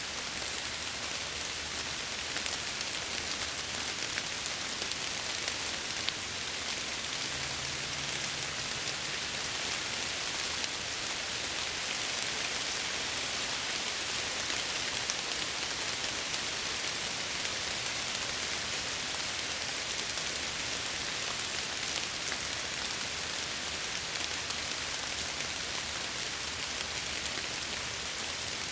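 Steady rain pattering on window glass, a dense even hiss with scattered sharper drop ticks. A faint low hum lies under it, with a brief low tone about eight seconds in.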